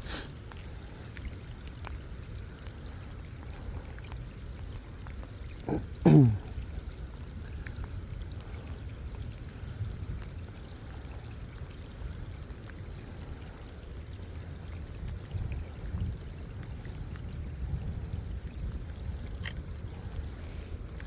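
Steady rain and water noise. About six seconds in there is a brief, loud sound that falls in pitch, the loudest thing heard.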